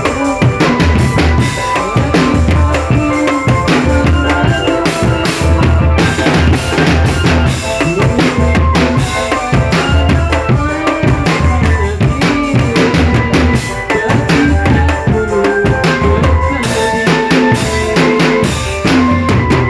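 Marching drum band playing: bass drums keep a steady deep beat under rapid snare-drum strokes and rimshots, with melodic instruments holding a tune above the drums.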